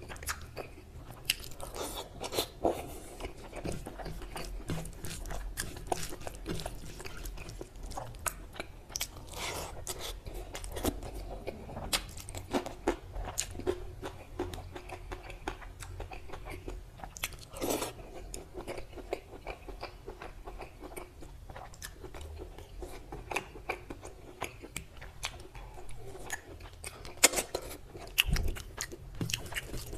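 Close-miked eating sounds of mutton curry with rice eaten by hand: chewing and biting, with many irregular clicks and crunches, the loudest near the end.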